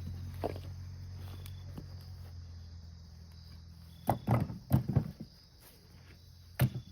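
A low, steady engine hum fades away over the first few seconds. Then comes a quick cluster of knocks and thuds, and one more knock near the end, over a steady high chirring of insects.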